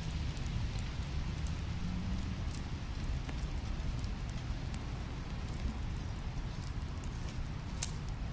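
Wood fire burning in a fireplace: a steady low rumble with scattered sharp crackles and pops, a couple of louder pops near the end.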